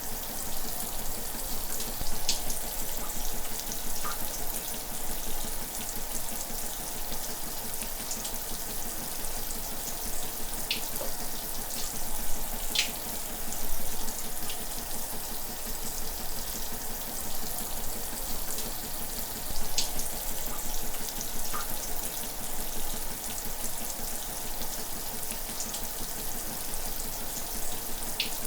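Shower running: a steady hiss of water spray, with occasional brief higher splashes or drips standing out from it.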